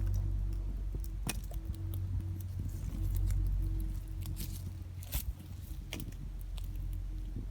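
Wood campfire crackling, with scattered sharp pops of burning firewood, over a steady low hum of a distant engine.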